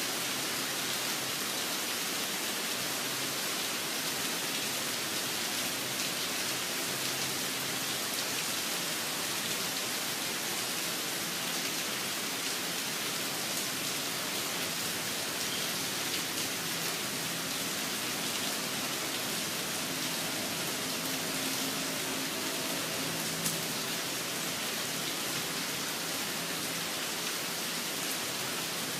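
Steady rain falling, an even hiss with one brief tick about four-fifths of the way through.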